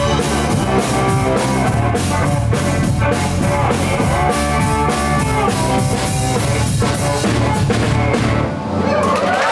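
Live blues-rock band playing loudly: drum kit, bass and electric slide guitar, with a short dip about eight and a half seconds in.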